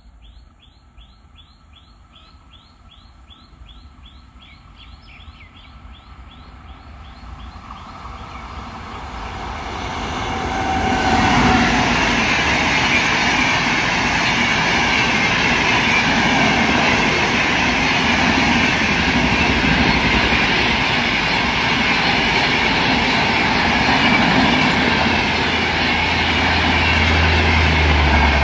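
An Indian express passenger train hauled by an electric locomotive approaches and passes close by. Its rumble builds over about five seconds, then a steady, loud run of coaches goes by for about seventeen seconds. Before the train arrives a bird chirps rapidly, about four notes a second.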